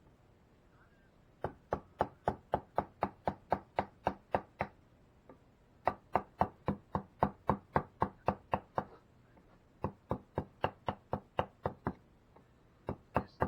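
Mallet striking a wood-carving chisel, driving it into the wood in steady taps, about four a second. The taps come in runs of two to three seconds with short pauses between them.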